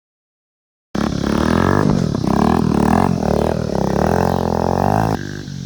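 Dirt bike running hard, its pitch rising and falling with the throttle. It starts abruptly about a second in and drops away sharply near the end.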